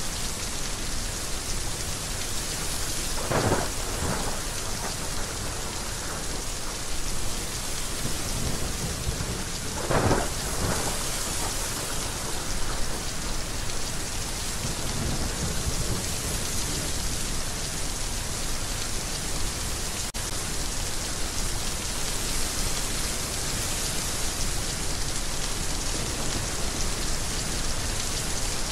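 Heavy rain falling steadily, with two short claps of thunder, one about three seconds in and one about ten seconds in.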